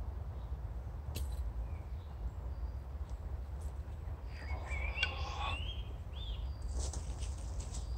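Woodland birdsong: a bird sings a short warbling phrase of sliding notes about halfway through, with a faint high call repeating, over a steady low rumble. A few sharp clicks come about a second in and again near the end.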